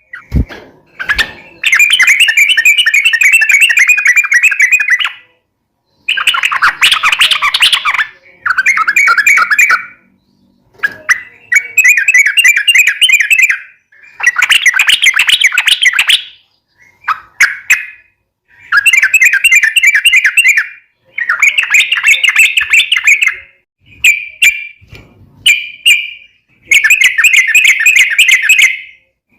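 Yellow-vented bulbul (trucuk) singing in full voice. It gives long phrases of rapid warbling notes, one after another, each lasting one to three seconds with short pauses between.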